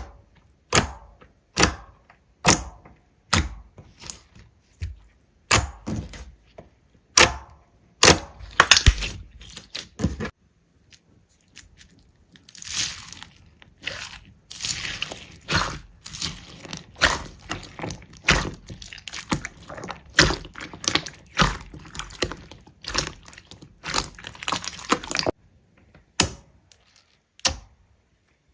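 Hands squeezing and pressing slime, making sharp pops and clicks about once a second, with a busier stretch of crackling, squishing sounds in the middle and later part.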